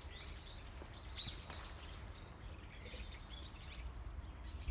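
Small birds chirping and twittering, many short rising and falling calls, over a steady low rumble.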